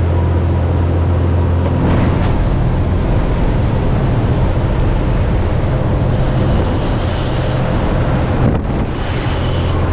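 Small jump plane's engine and propeller droning steadily during the climb, heard loud from inside the cabin, with a deep steady hum under a rushing noise.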